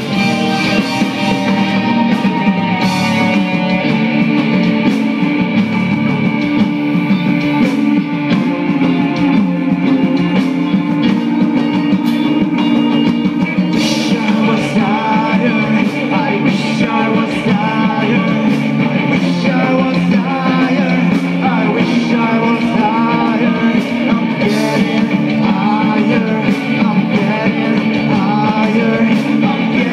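Live rock band playing loudly, with guitars and steady drum hits. A sung vocal line comes in about halfway through.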